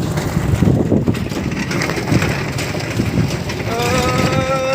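Rumble and rattle of a moving City Safari three-wheeler, then near the end a vehicle horn sounds one steady note that rises slightly in pitch as it starts.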